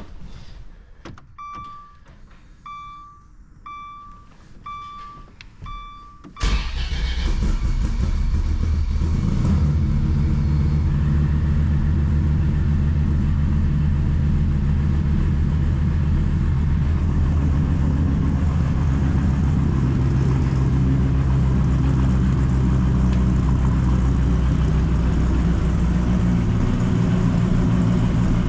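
A warning chime beeps repeatedly. About six seconds in, the twin-turbo Dodge Viper's V10 engine starts with a sudden loud catch and settles into a steady idle.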